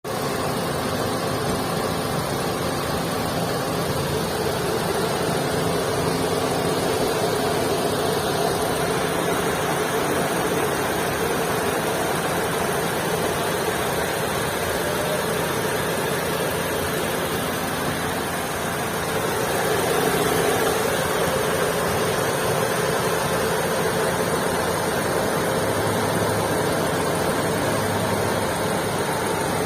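2022 Maruti Suzuki Swift's engine running steadily at idle, with a heavy noise that the owner puts forward as an engine noise problem. It swells slightly about twenty seconds in.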